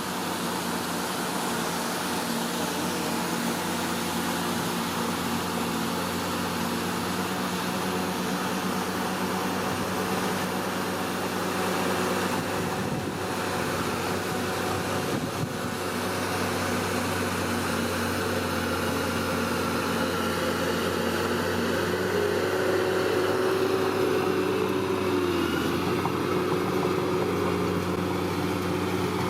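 Komatsu D41P bulldozer's diesel engine running steadily, with a brief dip in pitch about 25 seconds in.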